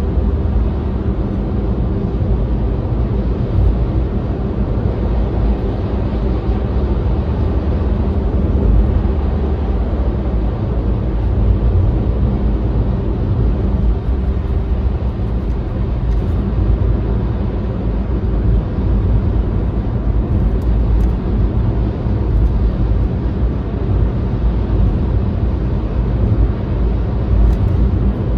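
Steady road noise of a moving vehicle: a constant low rumble with a faint engine hum.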